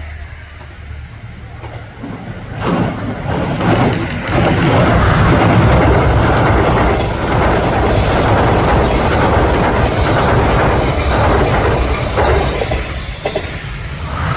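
JR 381 series limited express electric train, seven cars, passing at speed: a loud rush of wheels on rails builds a few seconds in, holds for about eight seconds, then fades as the train goes by.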